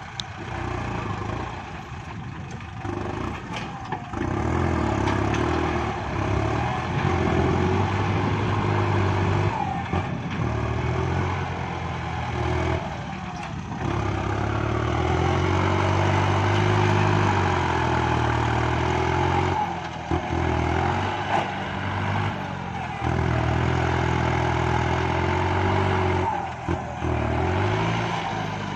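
Kubota MU5702 tractor's four-cylinder diesel engine working under load while pushing soil, its pitch and loudness rising and falling repeatedly as the load comes and goes.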